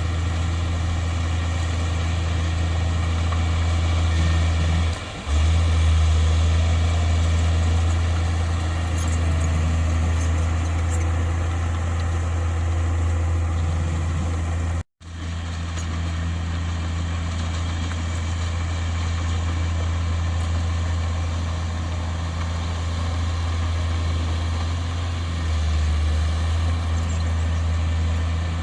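Heavy earthmoving machinery's diesel engine running steadily with a deep hum. There is a brief dip about five seconds in, and a momentary break to silence about halfway through.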